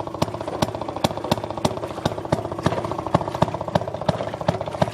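Small gas engine of a Maytag wringer washing machine running steadily, driving the washer and wringer, with rapid firing and a louder knock about three times a second.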